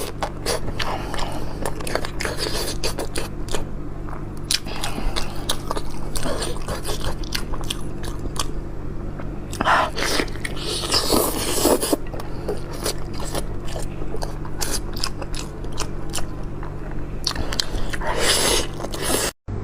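Close-miked chewing and gnawing on beef knuckle bone, with many small clicks, crunches and scraping bites over a steady low hum. It cuts out abruptly near the end.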